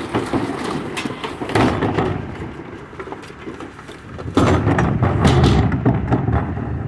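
Recycling truck at work: a low engine rumble under repeated knocks, thuds and clatter, with a louder run of clattering about four and a half seconds in.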